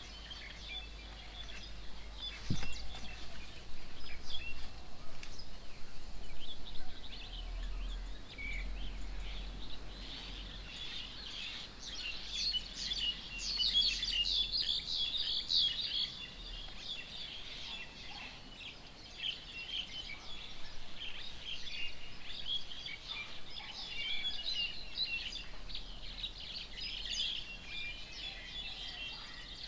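Many birds chirping and chattering at once, a dense run of short high calls that is busiest around the middle, over a low steady background rumble.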